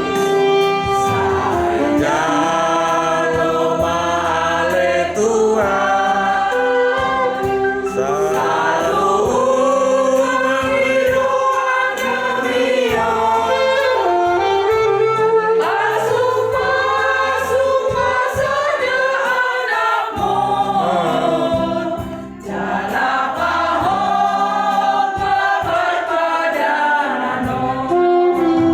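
A choir singing in parts, holding long notes, with a brief break in the singing about three-quarters of the way through.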